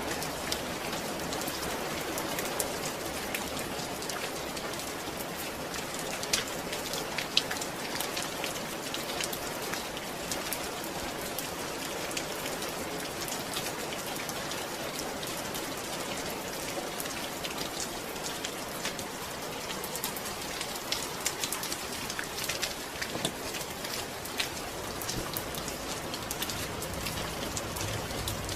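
Steady rainfall, with many individual drops ticking on a surface.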